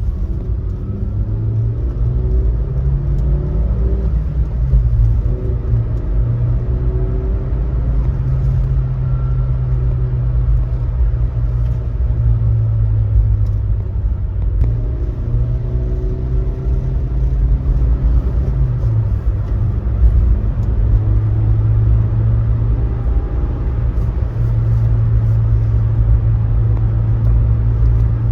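Subaru Sambar van's rear-mounted four-cylinder engine droning steadily under way, with road rumble. The pitch steps down a few times, about four seconds in and again around the two-thirds mark, as it shifts gears.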